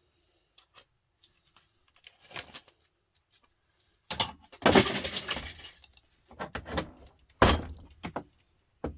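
Scrap metal from a radiator being handled: a loud clattering, crunching rattle about four seconds in that lasts about two seconds, followed by a few sharp clanks.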